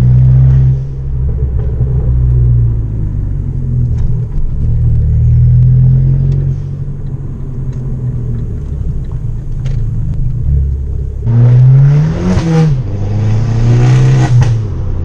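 Abarth 500's turbocharged 1.4 four-cylinder through a decatted Bombardone straight-through exhaust, with the engine note rising and falling. About eleven seconds in the revs climb quickly and drop, then a louder, brighter burst of revs comes near the end.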